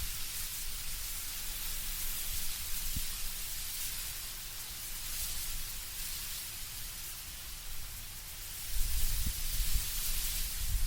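Wind through autumn trees, leaves rustling in a steady soft hiss. A low rumble of gusting wind comes up near the end.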